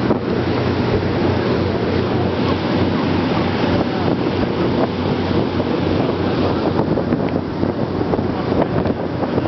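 Ferry under way: its engines drone steadily beneath heavy wind buffeting the microphone, with water rushing past the hull.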